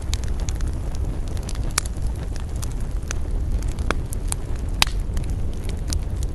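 Wood fire burning: a steady low rumble with scattered sharp crackles and pops, the loudest pop a little under five seconds in.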